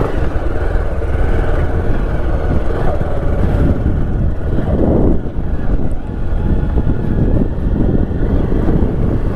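A motorcycle being ridden along a road, its engine running steadily under heavy, low wind rush on the microphone.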